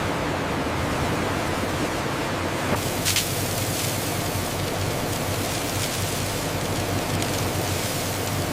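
Steady, even rushing noise with a low hum underneath, and a few light clicks about three seconds in.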